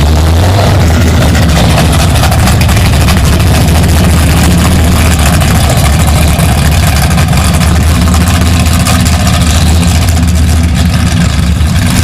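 A car engine idling steadily and loudly close by.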